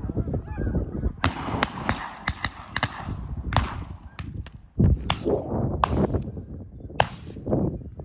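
Snow geese honking, many calls overlapping, with sharp clicks and knocks scattered through and a loud jolt about five seconds in.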